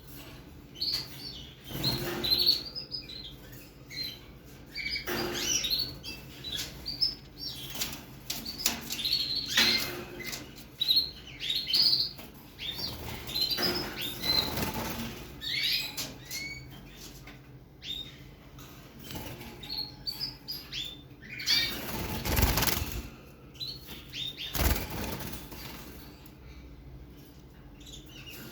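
A 55-day-old canary chick giving short, high chirps again and again, with repeated short bursts of wing fluttering; the loudest fluttering comes about 22 seconds in.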